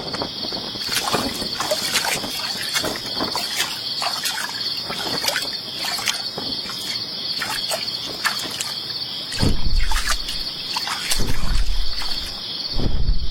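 Steady, high insect chorus with scattered clicks and crackles. Low rumbles come in bursts from about two-thirds of the way through.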